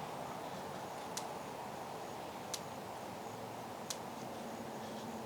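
Steady faint background noise with a sharp, short tick repeating evenly about every second and a half, four times.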